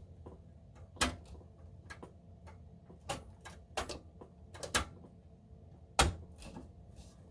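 Scattered sharp clicks and knocks of a graphics card being handled and pushed against a desktop tower case's slot as it is fitted, about six in all, the loudest about six seconds in.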